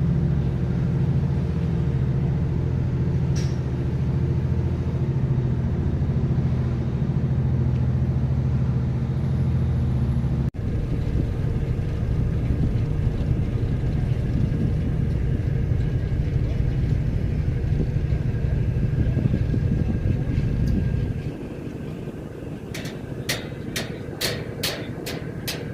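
A vehicle engine drones steadily, with an abrupt break about ten seconds in and a drop in level about twenty-one seconds in. A run of sharp clicks follows near the end.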